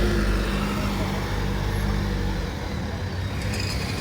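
Bus diesel engine running, a low rumble with a steady hum that eases off a little over two seconds in.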